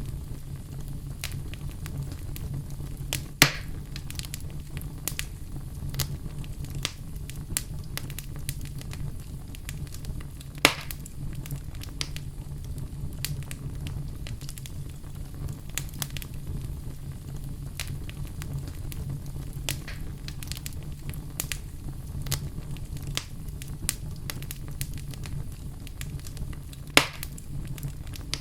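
Wood fire burning in a fireplace: steady crackling with scattered small clicks over a low rumble. There are three louder sharp pops, about three seconds in, around eleven seconds, and near the end.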